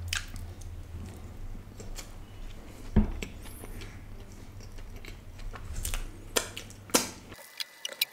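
Close-miked chewing of a mouthful of burger: irregular mouth clicks and small crunches over a low steady hum.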